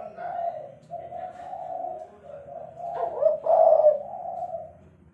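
Spotted dove (tekukur) cooing: a run of low, hollow coos, with a louder phrase about three seconds in.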